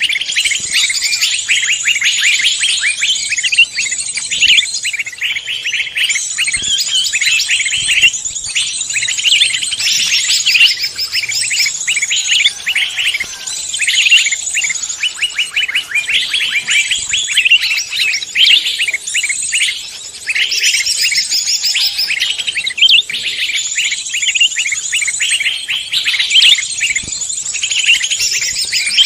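Dense, unbroken chorus of many songbirds chirping and trilling at once, with fast high notes overlapping, like layered recordings of several songbird species mixed together.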